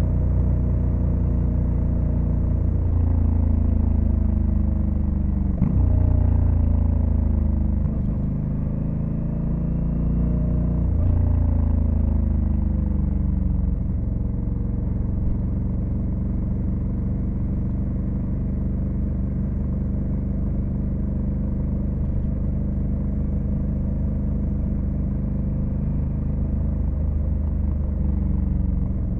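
Honda Africa Twin CRF1100L's 1084 cc parallel-twin engine accelerating through the gears: its pitch climbs and drops sharply at upshifts about six and eight seconds in. It climbs once more, eases off from about eleven to fourteen seconds in, then runs at a steady pitch.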